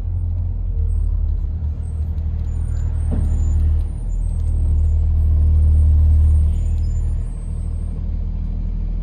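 Cummins B6.7 inline-six turbo diesel of a Blue Bird All American school bus running under way, a steady low drone heard from inside the cabin. It swells to its loudest about halfway through and drops back about seven seconds in, over light body rattles.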